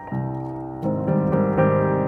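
Background piano music: soft sustained chords, a new chord struck about a second in.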